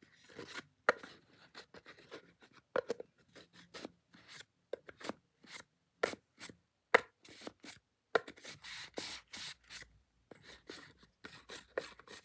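Handmade wooden popsicle-shaped object being tapped and rubbed: irregular light wooden clicks and knocks, with a denser stretch of scratching and scraping in the latter part.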